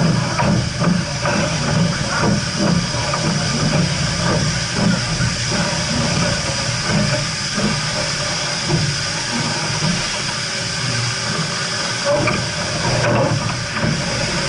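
Steam locomotive with a steady hiss of escaping steam and a rapid run of low knocks during the first half that thins out after about six seconds.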